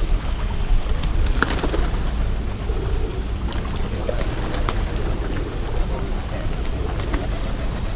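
Pigeons cooing over a steady low rumble, with scattered light clicks.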